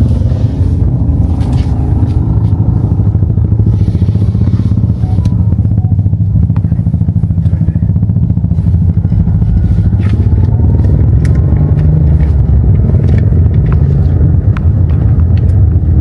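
Motor vehicle engine running as the vehicle travels: a loud, steady low rumble with occasional small clicks and rattles.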